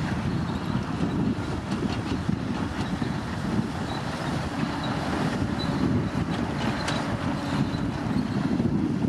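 Komatsu D65P crawler bulldozer's diesel engine running steadily under working load.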